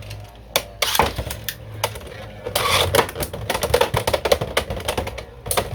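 Two Beyblade X spinning tops, Hellsscythe and Dransword, clashing in the stadium: sharp clacks from hard hits, with a dense flurry about two and a half to three and a half seconds in, over a low steady hum from the spinning tops.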